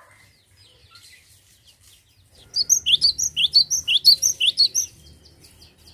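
Cinereous tit (gelatik batu) calling: faint scattered chirps, then about two and a half seconds in a fast run of loud, sharp, high chirps, around six a second, lasting about two and a half seconds.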